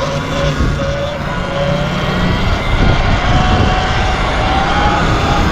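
A vehicle's motor running with a whine that slowly rises in pitch, over a low rumble of wind on the microphone.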